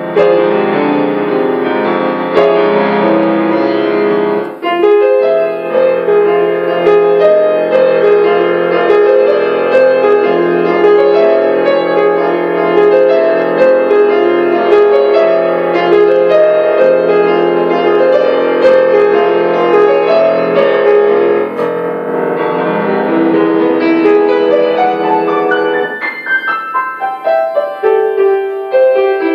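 Solo piano playing a composed piece, with steady runs of notes and a brief break about four and a half seconds in.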